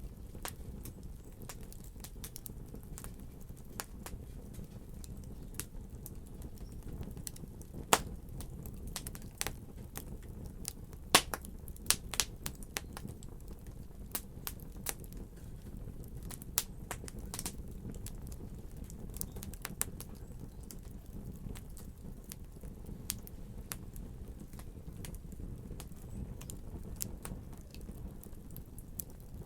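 Fire in a fireplace crackling: many irregular sharp pops and snaps over a steady low rumble of the flames, with a few louder pops about a third of the way in.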